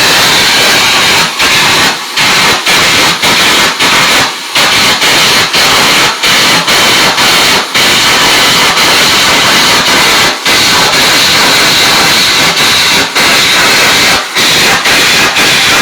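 Electric arc welding: the arc crackles and hisses loudly, with brief dips in the sound about once or twice a second.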